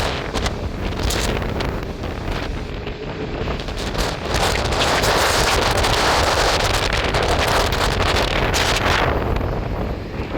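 Strong wind buffeting the microphone: a loud, rushing roar that swells from about four seconds in and eases again near the end.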